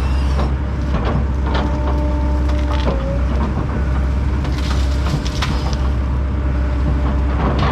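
Fecon Bullhog forestry mulcher on a tracked loader running hard and grinding through brush and small trees: a steady heavy engine and drum drone with a few whining tones, broken by repeated sharp cracks of splintering wood.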